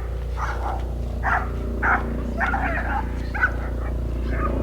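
A dog barking in short, repeated barks, about seven in a few seconds, over a steady low hum.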